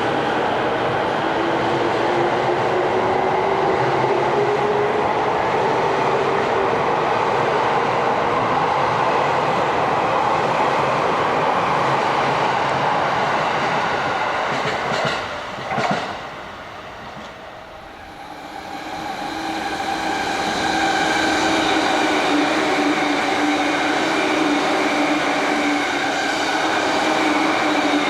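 Electric commuter trains at a station. A train's running noise and slowly rising motor whine drop away sharply about halfway through, with a short click. A few seconds later another train's noise and steady motor tones build up again.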